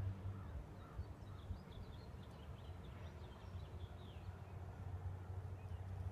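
A bird calling in a quick run of short, high chirps for about three seconds, over a low steady rumble.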